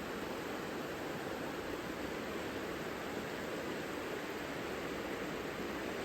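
Mountain river flowing: a steady, unchanging rush of water.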